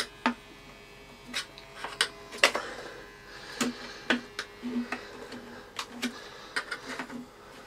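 Clicks and knocks from the body of an Electrolux Z345 cylinder vacuum cleaner as its inner tray is prised loose by hand to reach the motor filter: scattered sharp clicks about a second apart.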